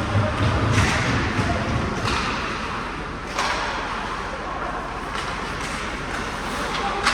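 Ice hockey game sound in a large arena: a handful of sharp knocks from sticks, puck and boards, a second or so apart, over distant voices and a steady hall hum.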